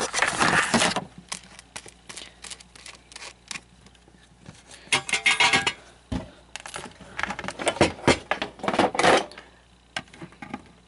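Metal hand tool clicking and scraping against the plastic of an animatronic figure in irregular bursts while prying at a deeply set staple.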